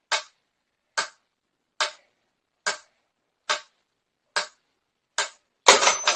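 Regular ticking: seven short, sharp ticks a little under a second apart, then a louder burst of noise near the end.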